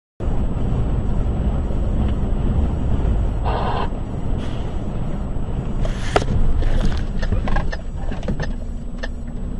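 A vehicle driving: steady low engine and road rumble, with a short pitched sound about three and a half seconds in and a run of sharp clicks and knocks from about six seconds on.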